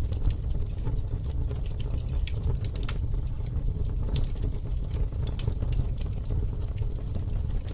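Wood campfire burning: frequent sharp crackles and pops scattered irregularly over a steady low rumble of the fire.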